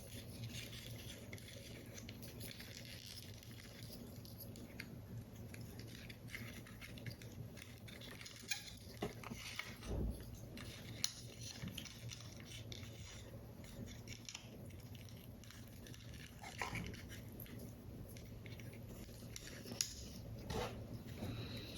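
Paper model parts being handled: light rustles of paper with scattered small taps and clicks, a few sharper ones, over a low steady hum.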